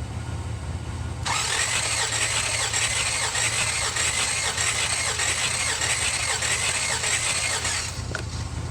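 Starter motor cranking the 1966 Buick Riviera GS's V8 for about six and a half seconds during a compression test on cylinder 5. It spins steadily with a wavering whine and no firing, then cuts off near the end, over a steady low hum.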